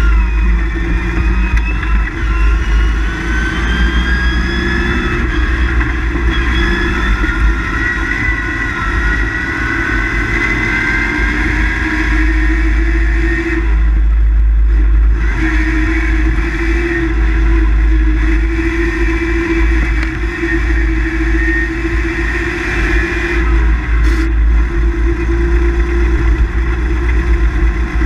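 Rally car engine heard from inside the cabin, its pitch climbing slowly over the first dozen seconds, dropping away briefly about halfway, then running steadily again, over a constant low road rumble.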